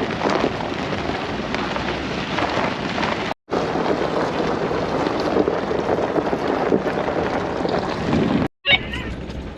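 Van driving on a rough dirt road: steady tyre and road rumble with wind noise, broken by two brief dropouts.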